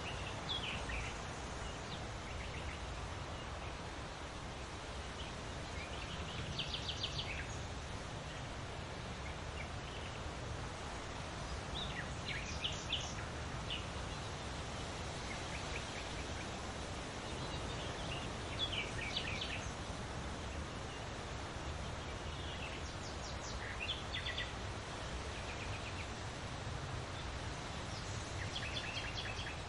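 Birds singing: short bursts of quick high notes every five or six seconds over a steady background hiss.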